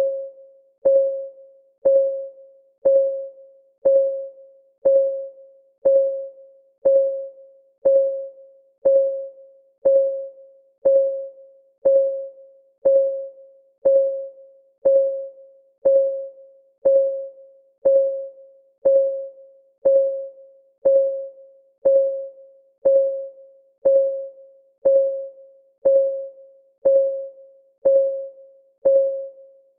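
Countdown timer's clock ticking sound: a sharp tick once a second, each ringing briefly on a single mid-pitched tone that dies away quickly.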